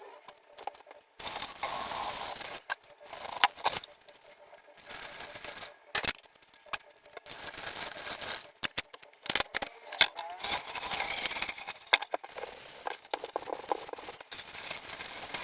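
Pans being scrubbed by hand, in bouts of scouring a second or two long with sharp knocks of the pan in between.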